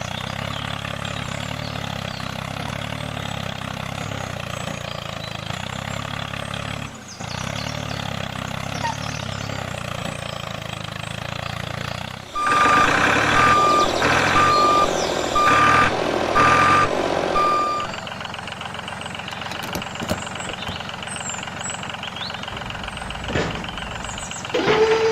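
A truck engine running steadily. About halfway through, a reversing alarm beeps about once a second for some five seconds over louder engine noise, before the engine carries on alone.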